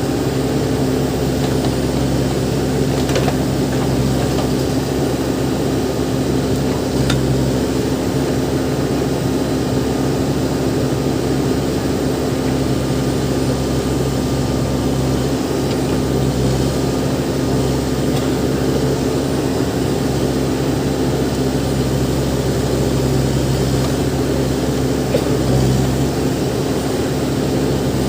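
Backhoe loader's diesel engine running steadily at a constant speed, with a few faint knocks.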